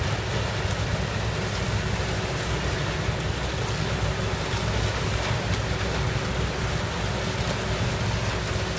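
Case 7000 sugarcane harvester running steadily in the field: a low engine rumble under a constant rushing noise.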